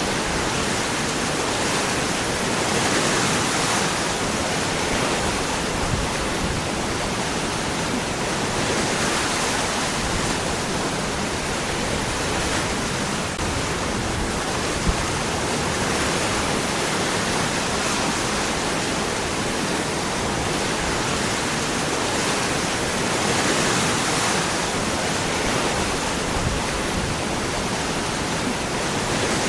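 Waterfall: water falling and rushing over rocks in a steady, full hiss that swells a little every few seconds.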